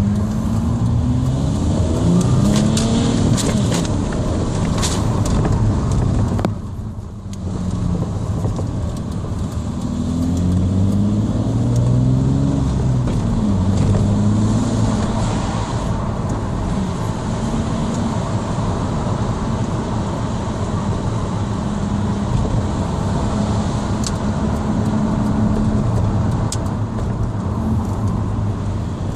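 Audi A4 2.5 TDI V6 diesel engine through a straight-through exhaust, its pitch rising and falling as it revs. There is a brief drop in sound about seven seconds in, and from about sixteen seconds it runs at a steadier pitch.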